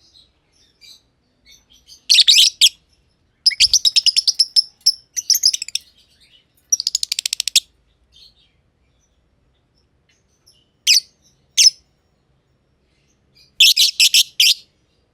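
Masked lovebirds chirping in short bursts of rapid, high chirps with pauses between. A longer chattering run comes a few seconds in, followed by a fast even string of chirps, two single chirps past the middle, and another burst near the end.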